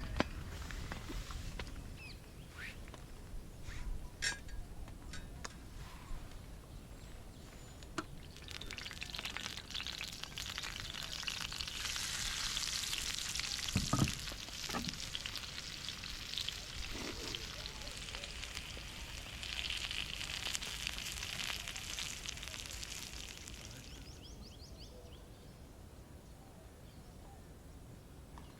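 Something sizzling on a campfire, a dense crackling hiss like food frying, that swells about eight seconds in, holds for about fifteen seconds and dies away. A few sharp clicks and knocks come before it, and there is a dull thump around the middle.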